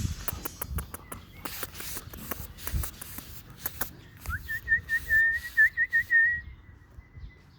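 A person whistling one high note that starts about four seconds in, warbles with a row of quick little trills, then fades to a faint held tone. Before it there is a scatter of light clicks and taps.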